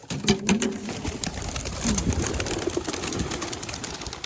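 A flock of young racing pigeons taking off from the release basket: a sudden burst of rapid wing clapping and flapping that goes on for a few seconds and thins out at the end.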